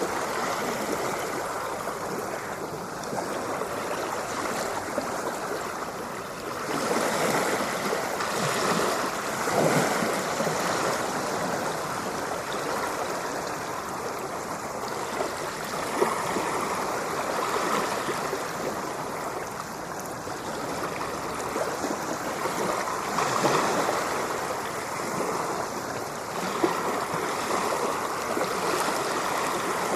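Ocean surf: a continuous rushing wash of water that swells louder twice, with waves breaking about fifteen seconds apart.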